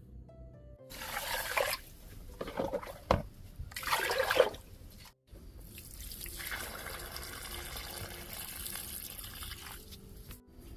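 Water splashing in three short surges, then, after a brief break, a steady flow of running water.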